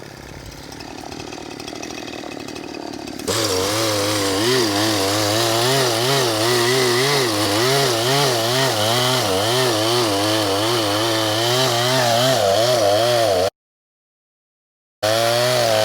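Gas chainsaw cutting into a tree trunk. About three seconds in it jumps to full throttle, loud, with its pitch wavering up and down steadily as it works in the cut. Its chain is running loose, which comes off the bar shortly after. The sound cuts out completely for a moment near the end, then the saw is heard again.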